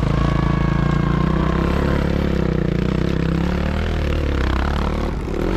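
Sidecar motocross motorcycle engines running: a loud, steady engine drone that eases slightly near the end.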